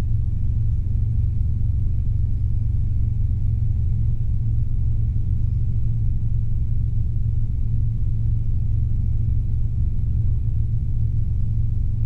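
Robinson R22 helicopter in flight, heard from inside the cabin: a steady, unchanging low drone of its piston engine and rotors.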